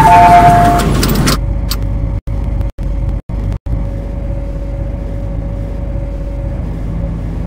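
Two-tone electronic beeping and a loud rush of noise stop within the first second or so. After that the MTR C-Train gives a steady low hum with a faint steady whine, cut by a few brief dropouts.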